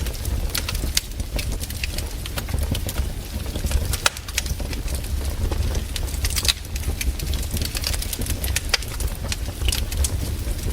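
Campfire crackling, with irregular sharp snaps and pops over a steady low rumble.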